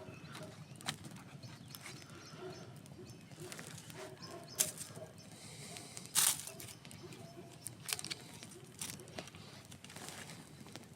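Campfire crackling: a low steady hiss of burning wood with scattered sharp pops, a few of them louder, the longest about six seconds in.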